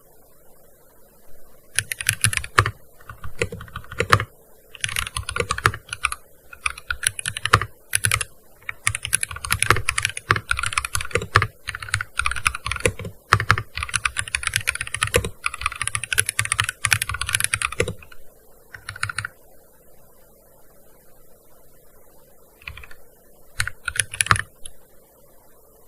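Typing on a gaming keyboard: fast runs of key clicks for most of the stretch, broken by short pauses, then a lull and a few brief flurries of keystrokes near the end.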